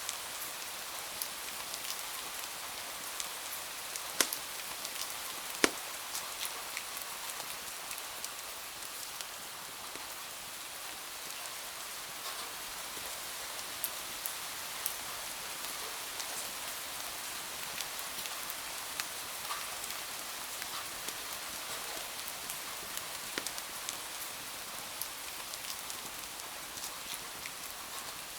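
Steady rain falling against window glass, mixed with scattered sharp pops and crackles from a wood fire. Two louder pops come about four and five and a half seconds in.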